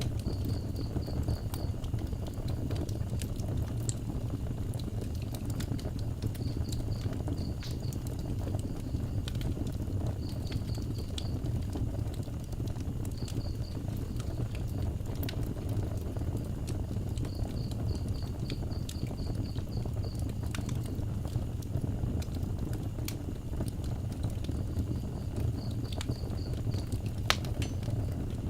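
Wood fire burning with a steady low rumble and scattered sharp crackles and pops. Over it a cricket chirps in short pulsed trains every few seconds.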